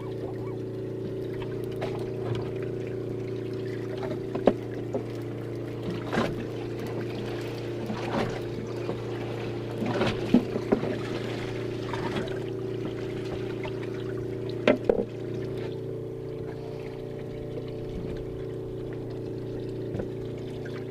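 Boat engine running steadily, with water sloshing and trickling around the boat. A few sharp knocks come about 4.5, 6, 10 and 15 seconds in.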